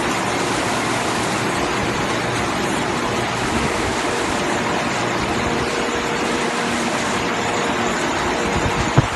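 Fruit and vegetable washing machine running: water rushing steadily through it over a faint, steady motor hum, with a brief low thump at the very end.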